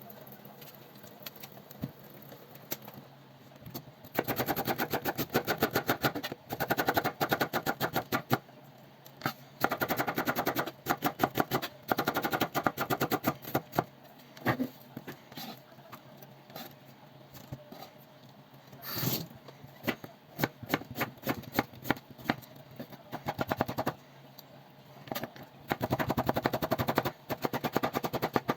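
Kitchen knife chopping vegetables on a cutting board: rapid, even chops, several a second, in bursts of a few seconds with short pauses between.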